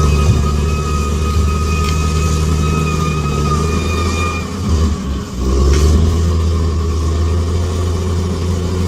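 Bulldozer's diesel engine running steadily, with a high steady whine over it that stops about four and a half seconds in. The engine briefly drops around five seconds, then picks up again.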